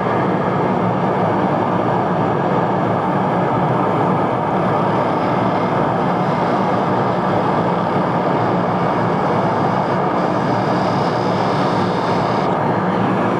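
Steady, even running noise of a workshop machine, unchanging throughout.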